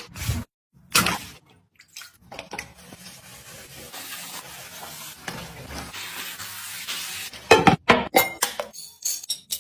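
Food sizzling in a cooking pot while it is stirred, with a utensil knocking against the pot: a run of sharp clinks at the start, a steady sizzle through the middle, and another quick run of knocks near the end.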